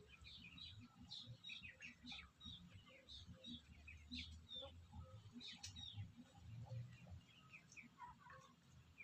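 Faint, busy chirping of birds: many short, quick chirps, often overlapping, over a low background rumble.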